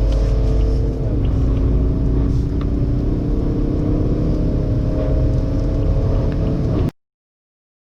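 Car engine accelerating hard, its pitch slowly rising. There is a brief dip about a second in, like a gear change. The sound cuts off abruptly near the end.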